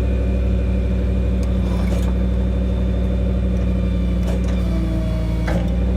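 Ford F550 service truck's V10 gas engine running steadily, driving the hydraulic crane as the boom is lowered, with a few light clicks from the crane controls.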